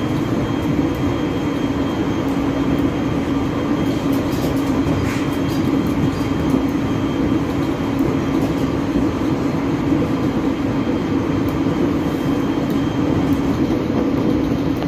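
Aoimori Railway 701 series electric multiple unit running at steady speed, heard inside the driver's cab: an even rumble of wheels and motors with a constant low drone.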